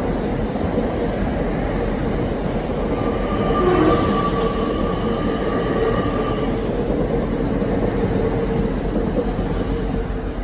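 A train running along the track: a steady rumble with a hum running through it, and a higher tone that joins for a few seconds around the middle, when it is loudest.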